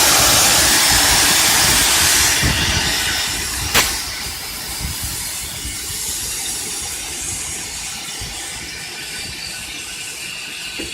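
Compressed air hissing loudly out of a Joy Industries diesel air compressor, tapering off after about two seconds, with a sharp click near four seconds; a quieter hiss and the low running of the Cummins diesel engine carry on underneath.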